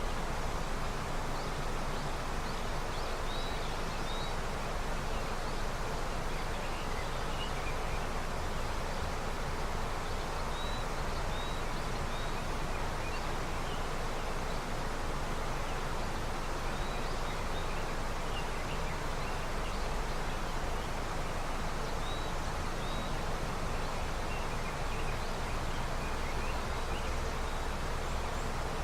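River running with snowmelt: a steady, even rush of flowing water. A few faint, short, high chirps come and go over it.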